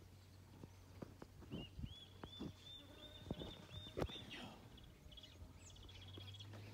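A bird calling a run of short, high, arched notes, about three to four a second, for roughly two and a half seconds, over a faint steady low hum and scattered light clicks. A sharp tap about four seconds in is the loudest sound.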